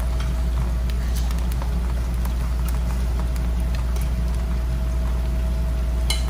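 Bánh xèo batter sizzling in a hot frying pan, with scattered sharp crackles, over a steady low hum. A brief sharper sound comes just before the end.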